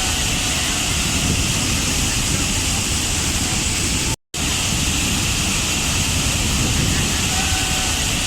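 Waterfall: a steady rush of falling water that cuts out completely for a split second about four seconds in.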